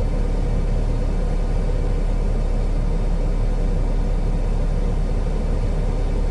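Heavy truck's diesel engine idling steadily, a low, even rumble heard from inside the cab.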